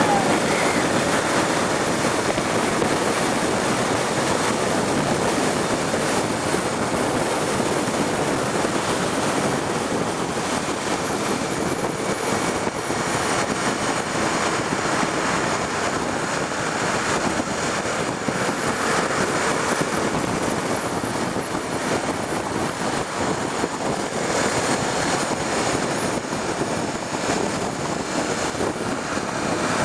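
Steady rush of wind and road noise from a Honda Tornado motorcycle ridden at speed, with no break.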